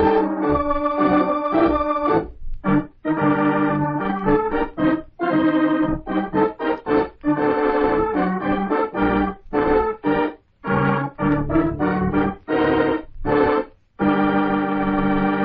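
Organ music playing a dramatic radio-drama theme in short, choppy chords and quick runs, ending on a long held chord.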